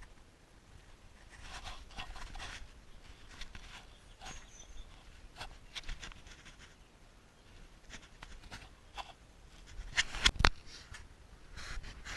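Scattered short scrapes and clicks of something being handled, with a cluster of sharp knocks about ten seconds in.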